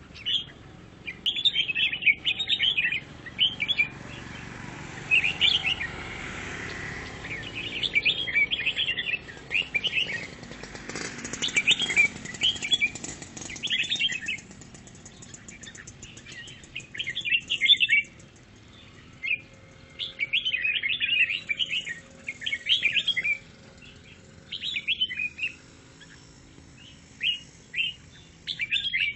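A brown-cheeked bulbul (cucak jenggot) singing in quick chattering phrases of a second or two each, with short pauses between.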